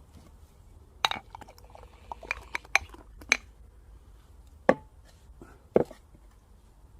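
Scattered sharp clicks and clinks of dishes and utensils during a meal, about seven in all, the loudest coming a little under five seconds in.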